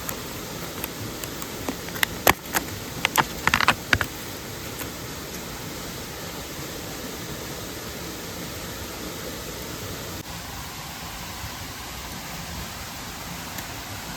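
Steady rushing of a mountain stream and waterfall, with a quick run of sharp clicks and knocks about two to four seconds in.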